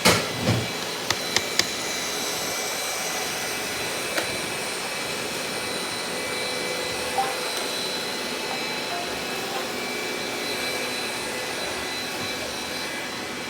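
Robot vacuum cleaner running, a steady whirring noise from its suction fan and brushes. A loud knock at the start and a few sharp clicks in the first two seconds break into it, with a couple of single ticks later.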